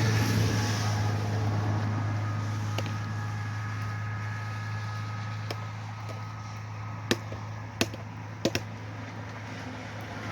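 A steady low mechanical hum, like an engine idling, with a few sharp taps or clicks, the loudest clustered in the second half.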